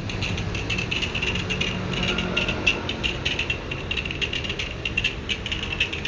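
A machine running steadily, with a low hum under a continuous, fast, irregular mechanical rattle.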